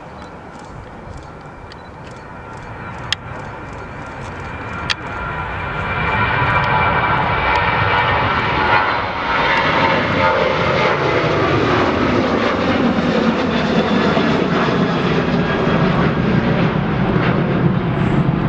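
Jet airliner's engines growing louder as it approaches, with a whine that slides down in pitch about halfway through as it passes, then a steady low rumble. Two sharp clicks about three and five seconds in.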